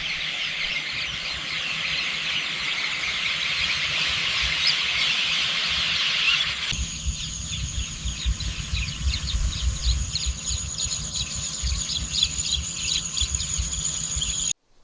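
Outdoor nature ambience of birds and insects chirping densely. About seven seconds in it cuts abruptly to another recording with a steady high insect buzz over scattered chirps and a low rumble.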